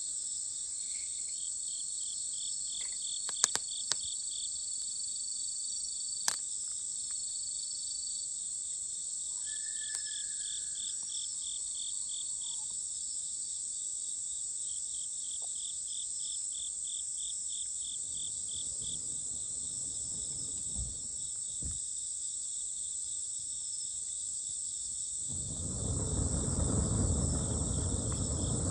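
Night chorus of crickets and other autumn insects: a steady high shrill with a rapidly pulsing trill beneath it. A few sharp clicks come early, and a loud rustling noise comes near the end.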